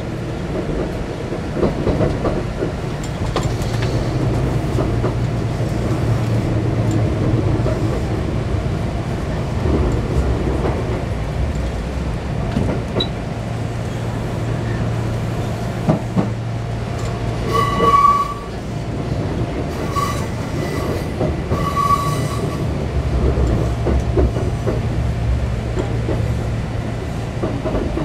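Electric commuter train running, heard from inside the car: a steady low running hum and rumble with wheels clicking over rail joints and points. A few short high-pitched wheel squeals about two-thirds of the way in.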